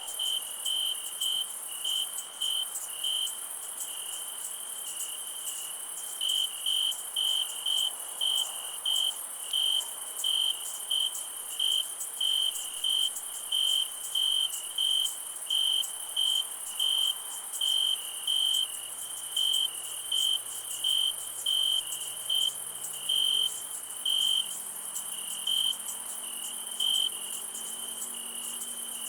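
A cricket chirping in an even rhythm of about two chirps a second, pausing for a few seconds about three seconds in and then resuming, over a continuous high-pitched insect chorus.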